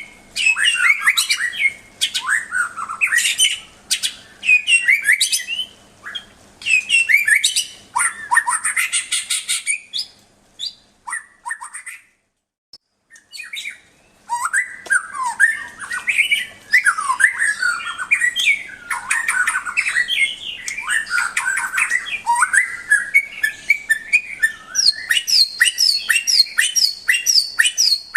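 White-rumped shama (murai batu) singing: varied whistled and chattering phrases with short pauses between them. The song breaks off for about two seconds near the middle, then runs on more densely and ends in a fast string of repeated high notes.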